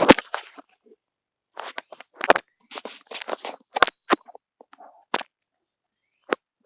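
Irregular short crunches and rustles, about a dozen scattered over several seconds with short gaps between them.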